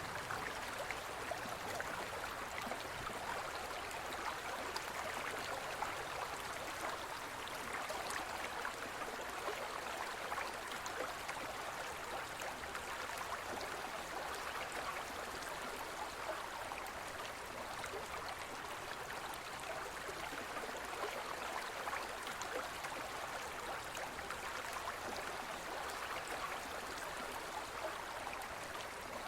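Gentle forest river flowing steadily: an even, unbroken rush of water.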